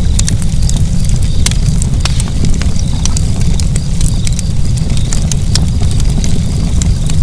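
Wood fire burning with a steady low rumble of flames and frequent sharp crackles and pops.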